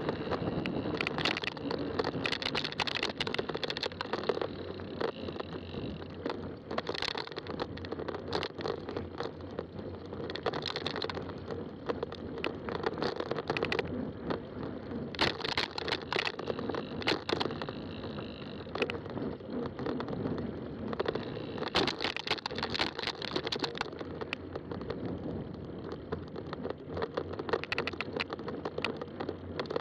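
Fat tire bike rolling along a trail: steady tyre noise with frequent clicks and rattles from the bike.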